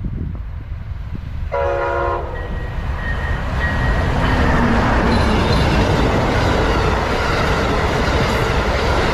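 An Amtrak passenger train sounds a short horn blast about one and a half seconds in, then the train's running noise swells and stays loud as it passes close by.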